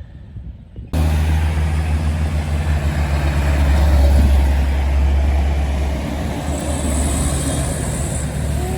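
Truck engine with an open exhaust running loud, a deep steady drone that cuts in suddenly about a second in, swells through the middle and eases off slightly near the end.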